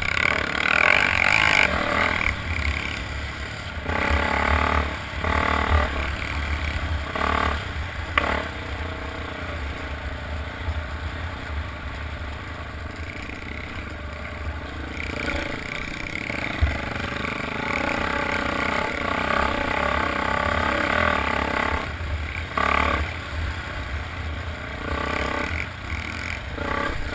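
Motocross motorcycle engines revving as bikes pass, growing louder in several bursts and falling back between them, over a steady low rumble.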